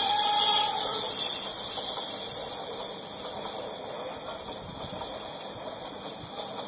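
Indian Railways passenger coaches rolling past at speed: a steady rumbling rattle of wheels on rails. A tone dies out in the first second, and the noise eases down over the next couple of seconds, then holds steady.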